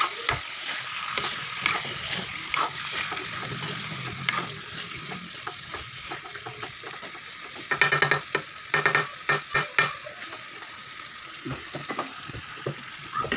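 Chicken and masala sizzling in a kadai while a spatula stirs and scrapes through it, with a burst of sharp metal clinks and knocks about eight seconds in.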